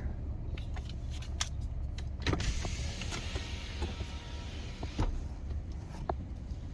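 Car heard from inside: a steady low rumble, with a rushing hiss that swells from about two and a half seconds to five seconds in, and a few light clicks.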